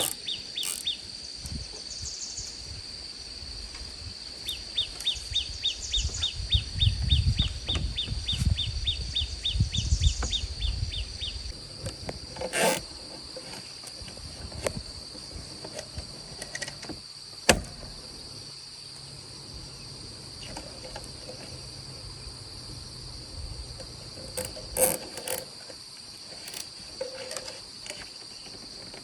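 Insects keep up a steady, high-pitched drone. For several seconds in the first half a quick, even series of chirps runs over it, about three a second, and a few sharp knocks are heard now and then.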